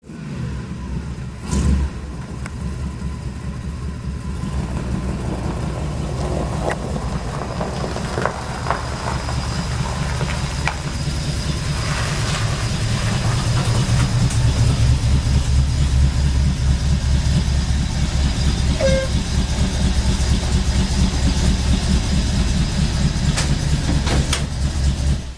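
A 1966 Ford F100 pickup's engine running with a steady, low, even pulsing, growing somewhat louder about halfway through. A single thump comes about two seconds in.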